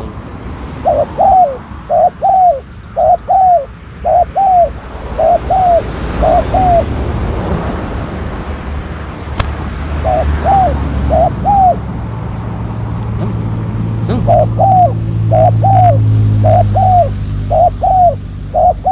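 Spotted dove cooing: short, arched coo notes repeated in runs, with pauses between the runs. A low hum builds and fades in the second half, with a single sharp click near the middle.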